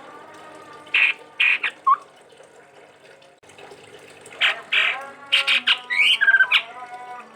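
Chestnut-rumped babbler calling: a few harsh notes and a short rising whistle about a second in, then after a pause a quick run of harsh chattering notes with a brief trill.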